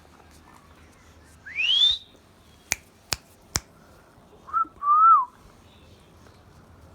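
Indian ringneck parrot whistling: a rising whistle that slides up steeply, then three sharp clicks, then a short note and a longer whistle that arches and drops away.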